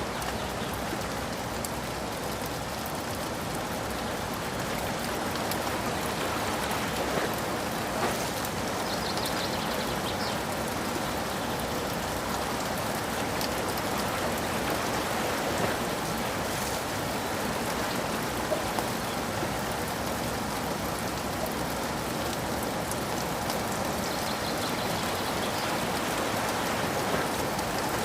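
Steady rain falling, with a few single drops striking louder now and then.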